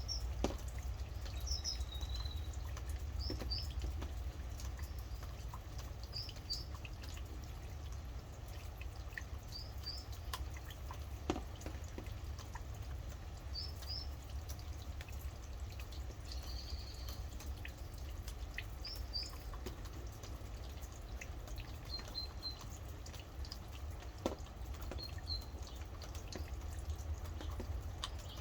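Rain dripping in scattered sharp drops while a bird gives short, high-pitched chirps in pairs every couple of seconds, over a steady low rumble.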